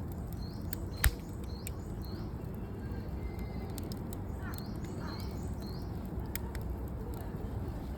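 Wood campfire crackling, with scattered sharp pops and one loud pop about a second in, over a steady low rumble of wind on the microphone. Birds chirp a few times in the background.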